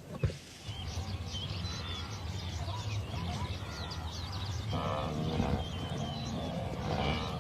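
Wild birds chirping repeatedly over a steady low rumble, with a short lower-pitched animal call about five seconds in and again near the end.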